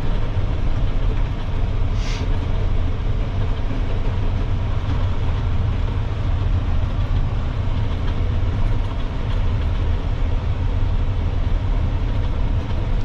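Peterbilt dump truck's diesel engine running steadily with a deep low rumble as the truck drives, with a short hiss about two seconds in.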